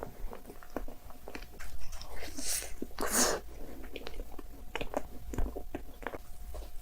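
Close-up eating sounds: a person chewing and biting, with many short mouth clicks and two louder noisy bursts around the middle.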